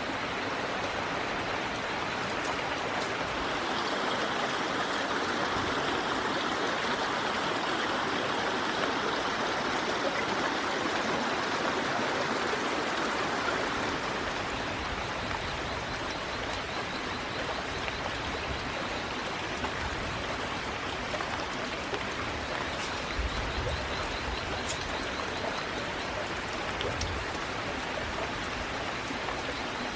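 Steady rushing noise of water, a little louder in the first half, with a faint fast ticking joining about halfway.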